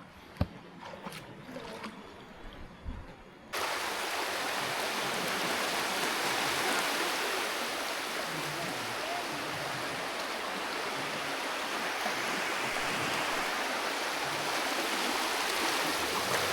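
A few faint knocks, then about three and a half seconds in a steady rushing water sound starts abruptly and carries on unbroken.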